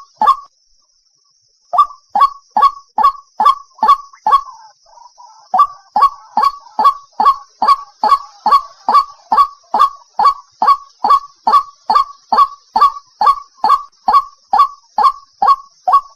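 White-breasted waterhen's 'ruak' call repeated over and over, two to three short, loud notes a second. The calls start about two seconds in and break briefly after about four seconds, where softer chattering fills the gap, then run on steadily.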